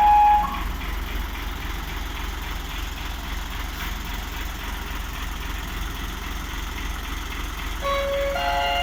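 Truck engine idling steadily. A run of stepped electronic melody tones from the truck's brake and reverse signal device ends about half a second in, and another begins about a second before the end.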